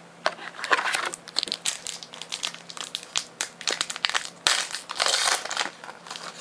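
Crinkling and crackling of a foil booster-pack wrapper as it is handled and opened, in irregular bursts, heaviest about a second in and again about five seconds in.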